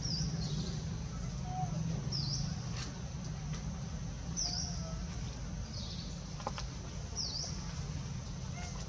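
A bird calling outdoors: a short, high chirp that dips and rises in pitch, repeated about every two seconds, over a steady low rumble.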